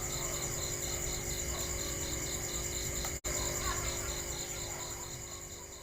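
Crickets chirping steadily in a regular pulsing rhythm of about four pulses a second over a faint low hum. The sound cuts out for an instant partway through and fades out near the end.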